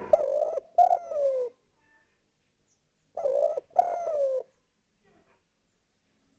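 Spotted dove (derkuku/tekukur) cooing: two calls about three seconds apart, each of two coos, the second coo sliding down in pitch.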